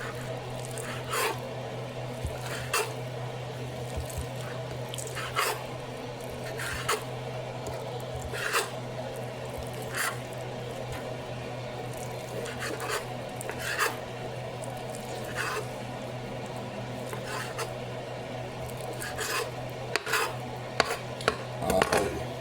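A kitchen utensil scraping or rasping in short strokes about every one and a half seconds, with a few sharper knocks near the end, over a steady low hum.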